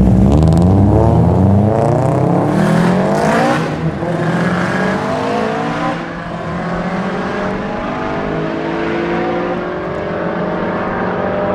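Two turbocharged Subaru Impreza flat-four engines accelerating hard side by side from a drag-race start, pitch climbing and falling back at upshifts about two, three and a half and six seconds in. The loudest is the black GC8 WRX with a fully built EJ20 and a Mamba GTX3076R turbo. The note fades steadily as they pull away.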